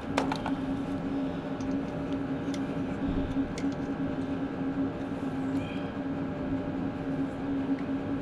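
Electric drill running steadily with an even hum, cutting into the broken starter mounting bolt on a Ford 8N tractor. A few light metallic clicks come right at the start.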